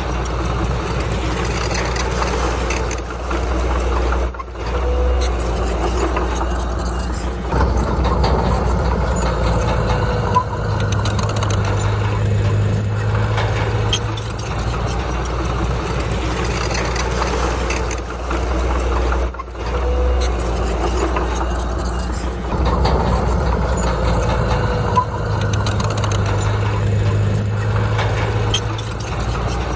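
Heavy earthmoving machine's diesel engine running steadily, its sound shifting in a pattern that repeats about every fifteen seconds.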